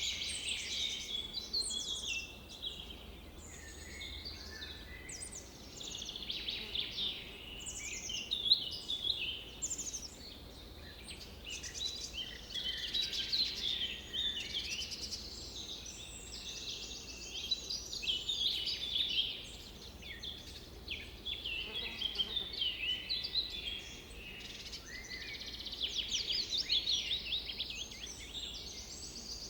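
A chorus of songbirds singing, many quick chirps and trills overlapping almost without pause, over a faint low steady background noise.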